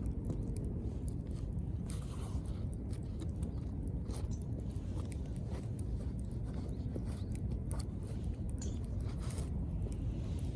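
Wood fire crackling, with irregular snaps and pops over a steady low rumble.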